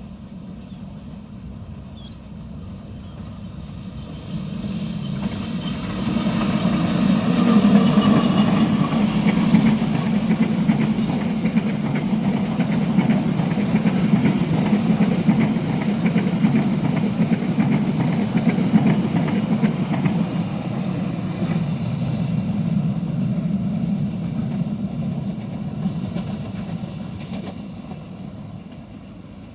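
Diesel-hauled train passing close by: the sound builds over a few seconds, stays loud for about fifteen seconds of steady wheel-on-rail rumble, then fades away.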